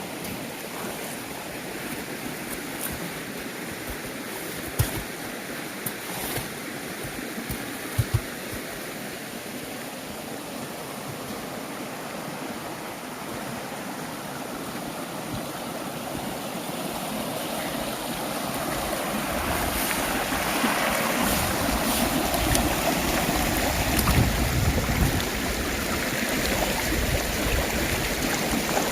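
Rain-swollen mountain stream rushing over rocks, a steady wash of water that grows louder in the last third, with a low rumble underneath.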